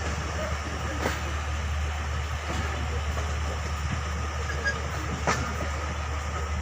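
Moving passenger train: a steady low rumble of wheels on track, with two sharp knocks, about a second in and again near the end, as the wheels cross rail joints.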